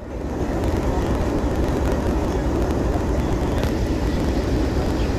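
Steady rumble of a moving passenger train running along the track, with a few faint ticks over it.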